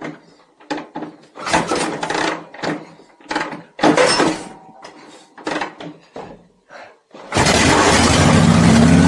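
Irregular knocks and clatter of work on the bike. Then, about seven seconds in, the 1974 Harley-Davidson Shovelhead V-twin starts and runs steadily.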